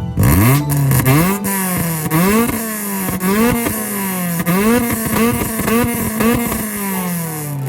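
Ford Fiesta ST150's 2.0-litre four-cylinder engine revved in repeated quick blips, about two a second, through the exhaust with the rear silencer removed.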